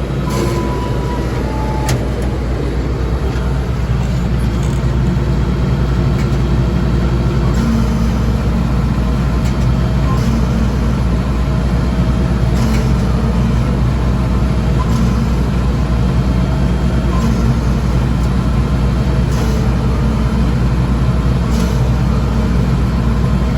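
International Harvester 1086 tractor's six-cylinder turbo diesel running steadily under load while pulling a Vermeer 605F round baler through the hay, with a faint click every two seconds or so.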